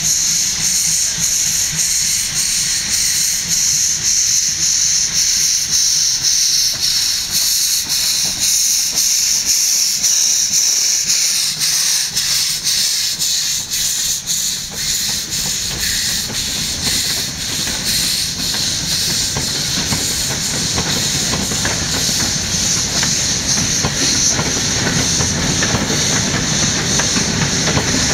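MÁV 324-class steam locomotive letting off steam in a loud, steady hiss, with a low rumble of the train growing from about halfway through.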